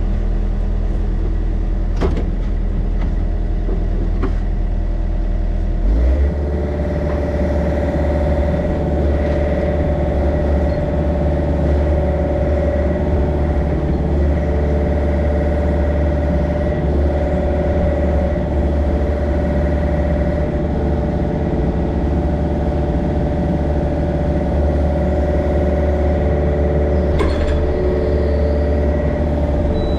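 Yanmar mini excavator's diesel engine running steadily, its engine note stepping up about six seconds in, with a few short clanks from the machine working.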